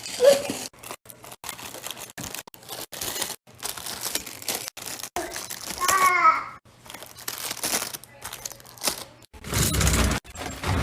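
Snack packaging crinkling and rustling, with light clicks and knocks as packages are handled and put away. A brief wavering high-pitched vocal sound comes about six seconds in, and a low thump near the end.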